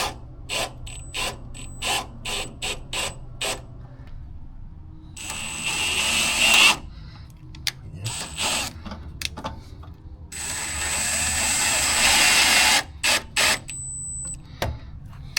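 Hand and power tools on car suspension parts: a quick series of short ratcheting strokes, then two longer runs of a power tool, the second the longer, with a few more short strokes near the end.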